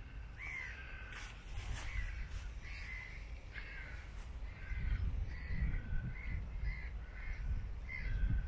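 Crows calling: a run of short caws, about two a second, over a low rumble of wind on the microphone.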